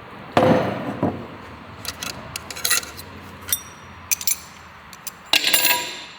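Metal tools and parts clanking: a loud ringing clank, a run of lighter clinks, then another loud ringing clank near the end.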